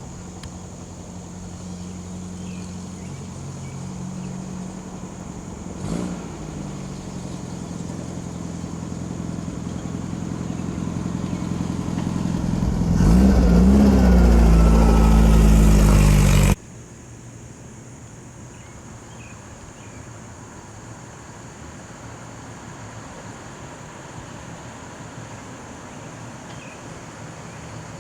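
A car engine running steadily, growing louder over several seconds until it is close and loud, its pitch swooping up and down as it passes, then cutting off suddenly. Afterwards only a quieter, steady background rumble remains.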